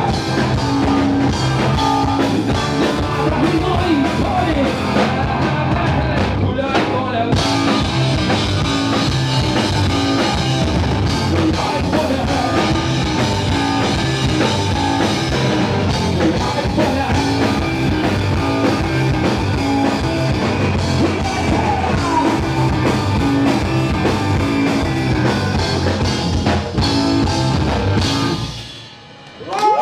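Live rock band playing a loud song with drum kit and vocals, which stops abruptly near the end.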